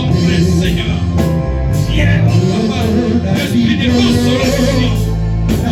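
Church worship music with a steady bass line and sustained chords, voices singing over it.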